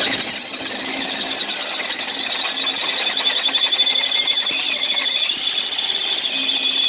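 Electric drill boring through the car's steel, a steady high whine as the bit cuts the metal and throws chips.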